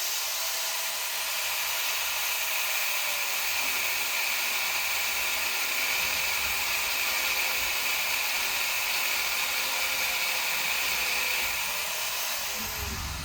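Handheld power tool running steadily on the steel I-beam, enlarging a bolt hole that was too small, then spinning down near the end.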